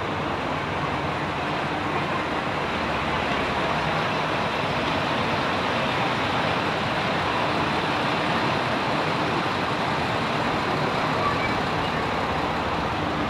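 Steady running noise of a train, an even rumble and hiss with no clear change in level.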